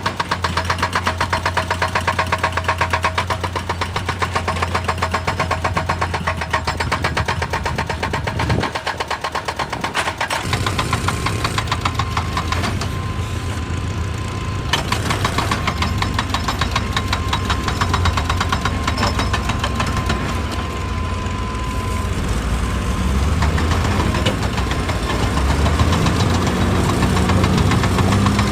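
Heavy diesel machinery running with a rapid, steady knocking pulse and a strong low hum. The sound shifts about ten seconds in and grows slightly louder toward the end.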